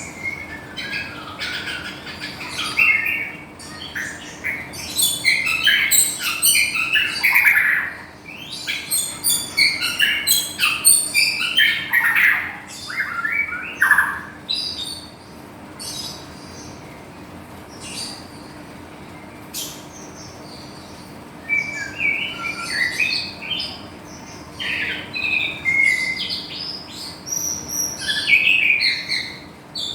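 White-rumped shama of the Medan type singing rapid, varied phrases packed with mimicked notes. It falls mostly silent for several seconds about halfway through, then resumes.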